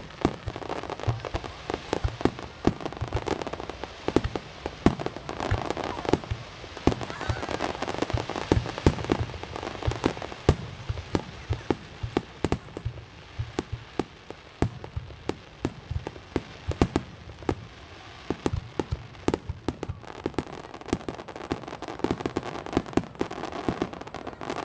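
Aerial fireworks bursting in quick, irregular succession: many sharp bangs and pops throughout, over a steady background hiss.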